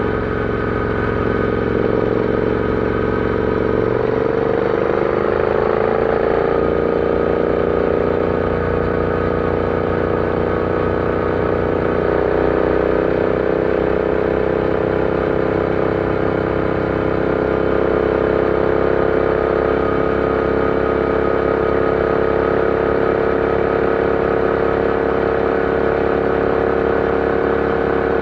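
Royal Enfield Interceptor 650's parallel-twin engine pulling a motorcycle along. Its note rises as it accelerates, a few seconds in, then holds steady at cruise.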